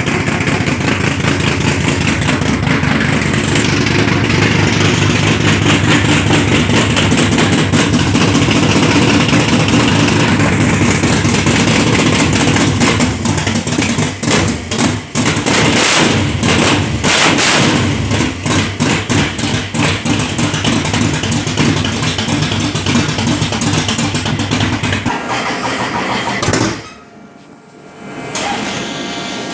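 1966 Dodge Coronet engine running after a cold start. It runs steadily, turns uneven for several seconds in the middle, and drops out briefly near the end before a quieter sound returns.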